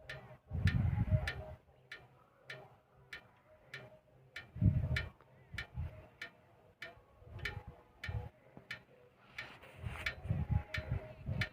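A steady ticking, about one and a half ticks a second, with intermittent low rumbles underneath.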